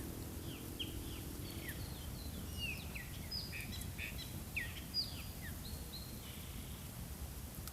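Small birds chirping: many short, falling chirps from several birds overlapping, over a low background rumble.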